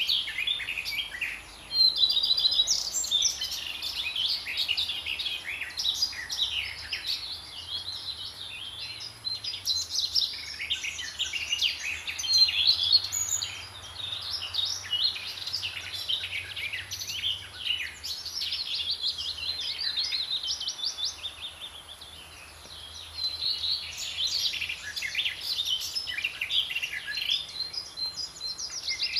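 Birds singing, a dense chorus of many quick, high chirps and twitters overlapping without a break.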